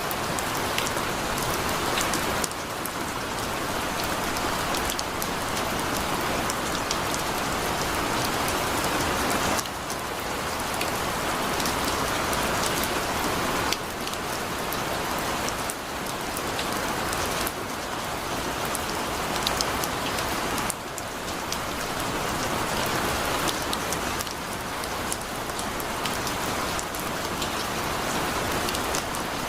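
Heavy rain falling steadily: a dense hiss of drops with scattered sharper drop ticks, its level stepping up or down abruptly every few seconds.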